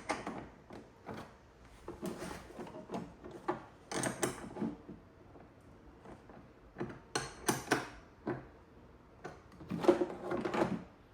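Hand tool and metal parts clicking, rattling and scraping in irregular bursts as cable terminals are tightened down on a power station's connector.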